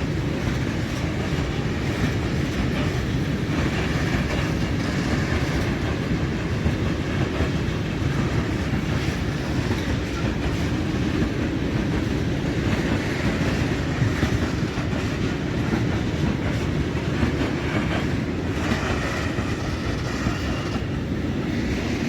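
Freight train of coal wagons rolling through a station, a steady rumble with wheels clicking over rail joints.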